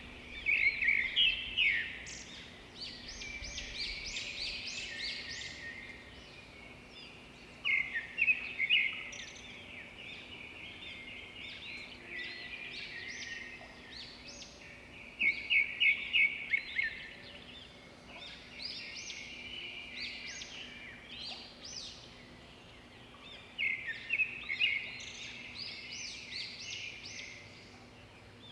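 Birds singing: a loud phrase of rapid chirps comes about every eight seconds, four times, each followed by a few seconds of softer twittering.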